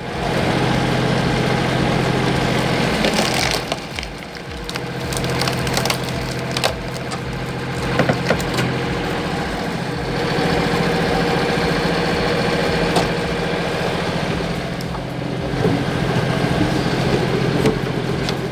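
Wood cracking and splintering as a powered log splitter forces logs apart, with sharp cracks over an engine running steadily.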